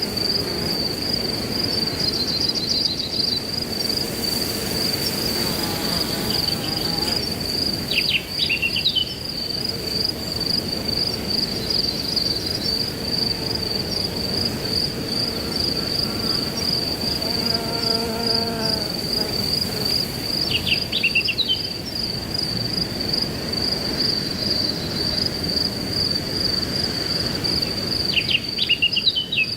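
Crickets chirping in a steady, rapidly pulsing high trill over the rush of wind through grass, with short clusters of bird calls three times.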